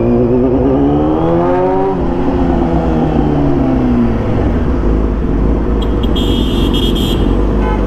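Kawasaki ZX-10R inline-four engine revving up under acceleration for about two seconds, then its pitch falls away after a break as the throttle comes off. Wind rush takes over after that, with a brief high-pitched sound near the end.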